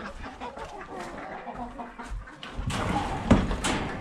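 Hens clucking in short calls. About two-thirds of the way through, a louder low rumbling noise comes in, with a sharp knock near the end.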